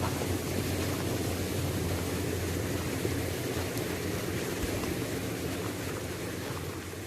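Waterfall: steady rushing of falling water, growing a little quieter near the end.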